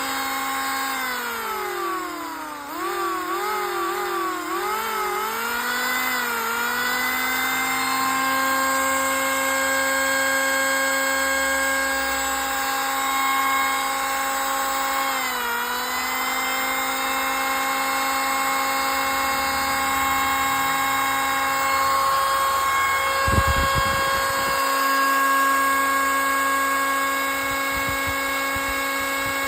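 Stanley 750 W electric planer running with a steady whine. The motor's pitch sags and wavers for the first several seconds and dips again about halfway, as it comes under load. A few low knocks sound about three-quarters of the way in.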